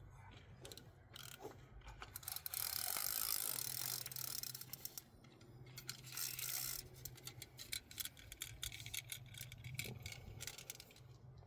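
Fishing reel clicking rapidly as its ratchet turns, in quick irregular runs, with a hissing rush from about two to five seconds in and again briefly near six seconds.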